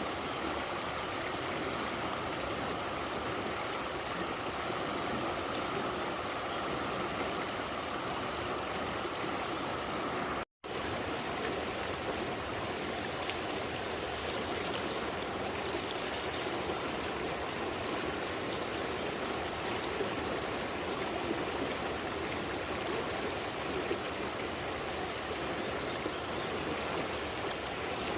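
Steady rushing of a flowing stream, with a momentary break about a third of the way through.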